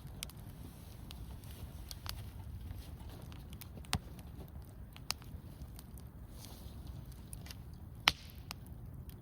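Wood campfire crackling: sharp pops at irregular intervals, the loudest about eight seconds in, over a low steady rumble.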